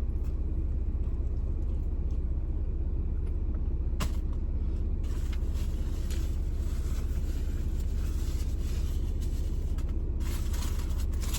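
Steady low rumble of a car heard from inside the cabin, its engine idling, with a sharp click about four seconds in and soft crackly eating sounds from about five seconds on.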